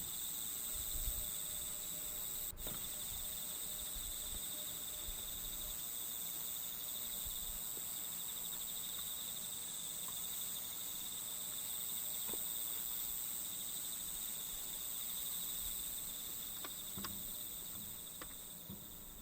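Steady chorus of chirring insects, a continuous high trill that fades out near the end, with a few faint light clicks.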